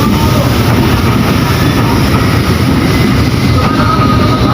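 A train passing close by: a loud, steady rumble of wheels running on the rails.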